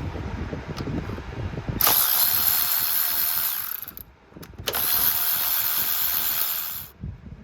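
Electric ratchet running in two bursts of about two seconds each, with a short pause between, driving a fastener during the power steering hose job. Low handling clatter comes before it.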